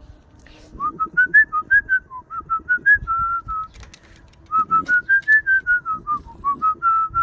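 A person whistling a short tune of quick notes, in two phrases, to call the puppies.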